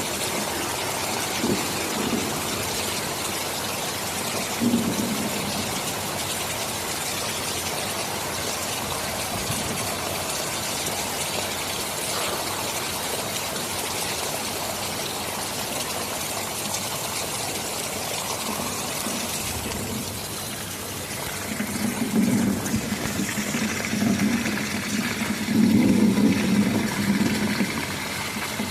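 Steady rain falling, with low rolling rumbles of thunder: brief ones early on, then a longer, louder rumble in the last several seconds.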